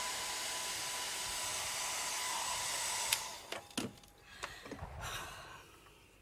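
Handheld hair dryer running with a steady hiss and a faint whine, switched off with a click about three seconds in, followed by a few light clicks and knocks as it is handled.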